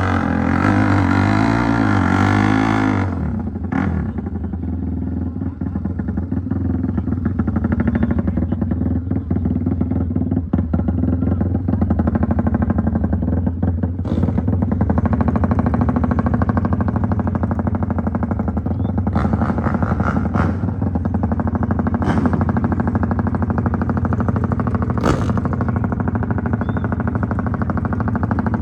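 Motorcycle engine, its pitch wavering up and down for about the first three seconds as it is revved, then running steadily with a fast, even beat and a few sharp clicks.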